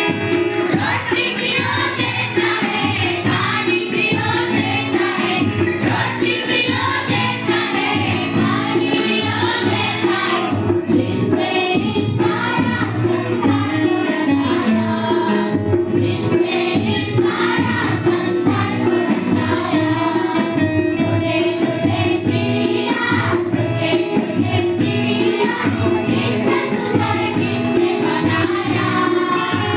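A chorus of voices singing a Hindi Christian children's song with instrumental accompaniment, continuing without a break.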